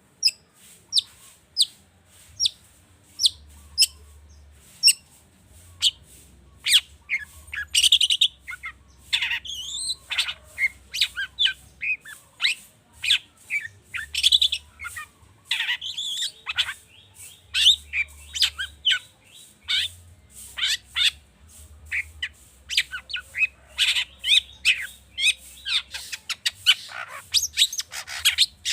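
Long-tailed shrike (cendet) singing a fast, varied song full of mimicked calls of other birds. It opens with single sharp down-slurred notes spaced about a second apart and thickens into a dense run of chirps and sweeping notes about a quarter of the way in.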